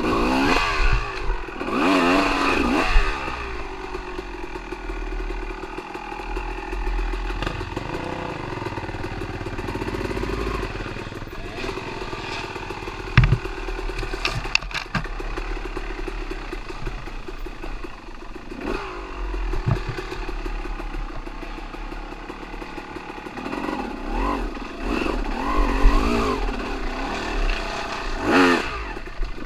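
Dirt bike engine running, its pitch rising and falling as the throttle is opened and closed, with rattling and a couple of sharp knocks midway.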